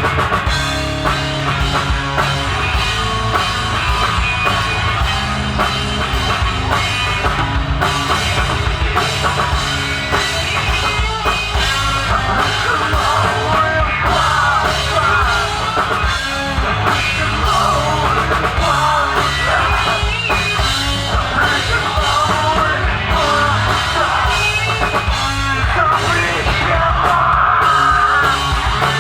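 Rock band playing live with a full drum kit, loud and continuous.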